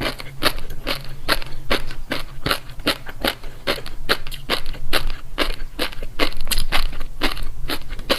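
Close-miked chewing of crunchy food, a steady run of crisp crunches about three a second.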